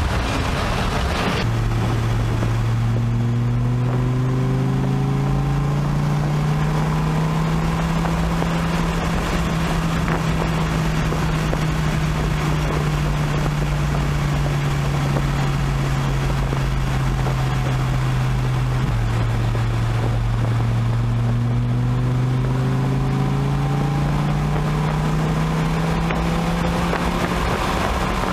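Dodge Viper's V10 engine pulling hard under load at highway speed, heard from inside the cabin. Its drone rises steadily in pitch as the revs climb toward 4,500 rpm, drops suddenly about two-thirds of the way through, then climbs again.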